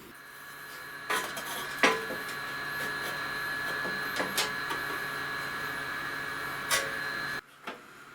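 A small electric motor running with a steady whine and low hum, with a few sharp clicks and knocks over it; it cuts off abruptly near the end.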